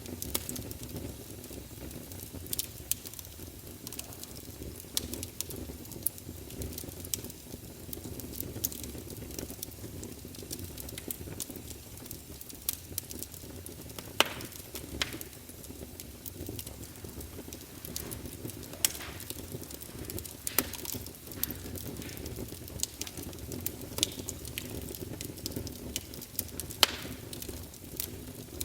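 Wood fire crackling in a fireplace: a steady low rumble of burning logs with irregular sharp pops and snaps, the loudest about halfway through and near the end.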